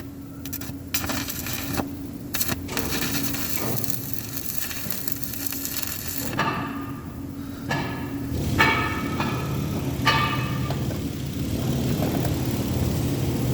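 Metal being worked with hand tools: a run of sharp knocks and clanks at first, then several ringing scrapes, all over a steady low hum.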